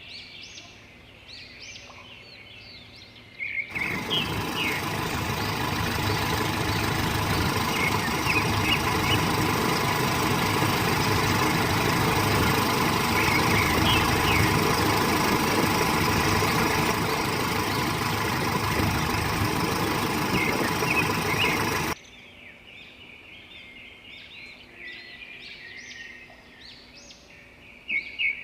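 Birds chirping, then a loud steady truck engine noise that starts abruptly a few seconds in and cuts off sharply after about eighteen seconds, after which the birds chirp again.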